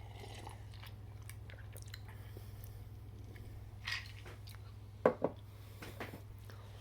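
Quiet sounds of drinking an iced drink from a cup: a short sip about four seconds in, then a couple of sharp clicks of ice against the cup about five seconds in, over a steady low hum.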